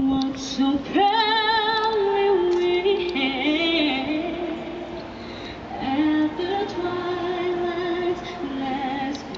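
A woman singing solo, slow held notes with wide vibrato.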